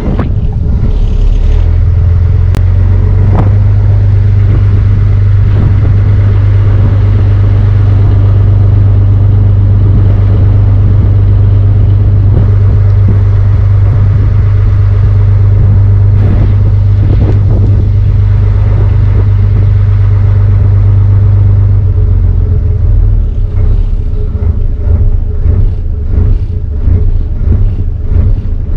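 The barge's inboard engine running with a loud, steady low drone. About 22 seconds in the drone eases and turns uneven and buffeting.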